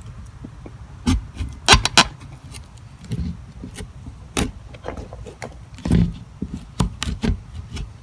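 Sharp knife working into the hard shell of a gourd to cut off its neck: a series of irregular sharp cracks and knocks with scraping in between.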